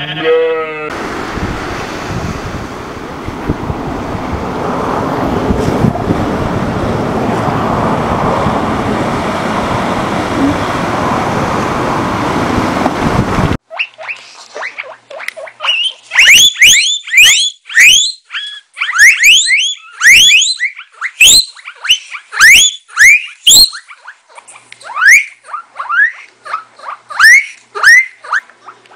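A goat's bleat ending at the very start, then a loud, crackling rustle for about thirteen seconds that cuts off suddenly. After that come guinea pigs wheeking: many short, loud squeals, each rising in pitch, several a second at first and sparser toward the end.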